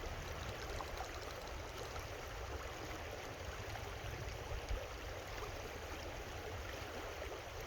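Creek water running steadily, an even rushing babble.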